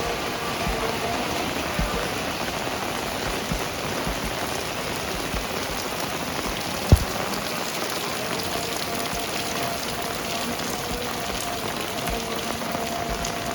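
Heavy rain falling steadily, with one sharp knock about seven seconds in.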